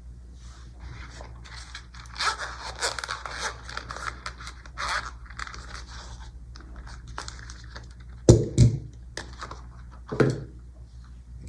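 Small magnet balls clicking and rattling against one another in a quick, irregular run of tiny clicks. After about eight seconds come a few louder single clacks.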